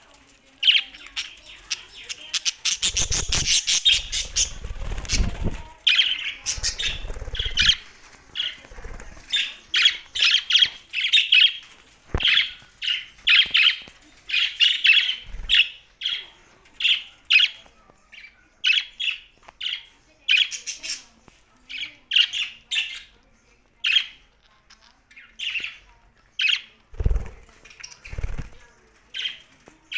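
Pet budgerigars chirping and squawking: a dense burst of calls a few seconds in, then short chirps about once a second. A few low thuds come in among the calls.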